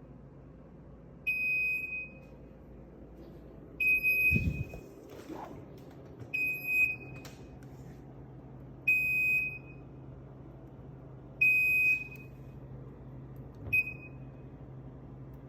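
Viking refrigerator's high-temperature alarm beeping: a short high beep about every two and a half seconds, six times. The owner takes it for a false alarm from a failed thermostat sensor. A low thump comes about three seconds in, and a steady low hum starts about six seconds in.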